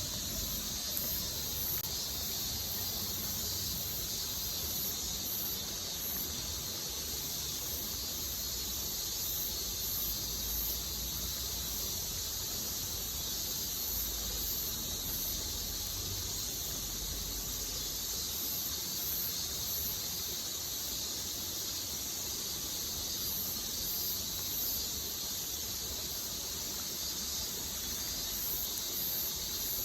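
Steady high-pitched chorus of insects chirring, swelling and fading in slow waves, over a low steady rush.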